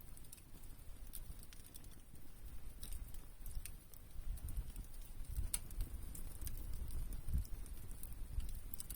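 Wood fire burning: irregular crackles and sharp pops of burning wood over a low, uneven rumble that grows stronger in the second half.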